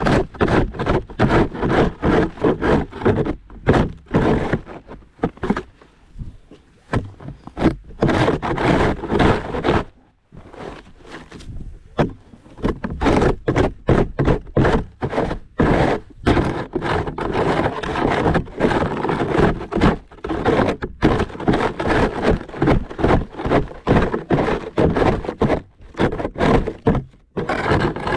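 Snow shovel scraping across a driveway in repeated, irregular strokes, with thunks as the blade hits the ground and snow is tossed, and short pauses between bursts.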